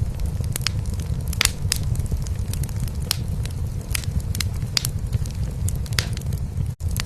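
A cat purring in a steady low rumble, layered with a wood fire crackling in a fireplace with scattered sharp pops. The sound cuts out for an instant near the end.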